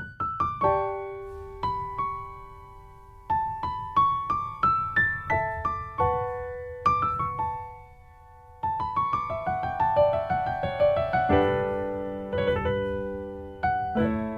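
Background piano music: slow phrases of single notes and rising runs, each note ringing and fading, with a brief lull about three seconds in and another about eight seconds in.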